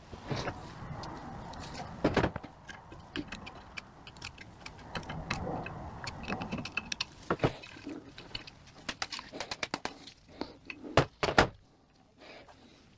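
Clicks and light metallic clinks of small transmission valve-body parts and hand tools being handled on a workbench, with a few sharper knocks, two of them close together near the end.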